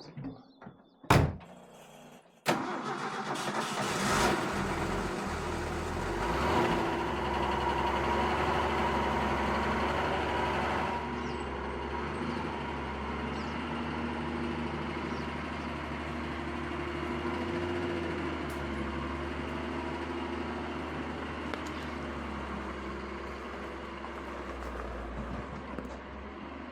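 1966 Ford pickup truck's engine starting about two seconds in after a single sharp knock, revving up briefly twice, then running steadily.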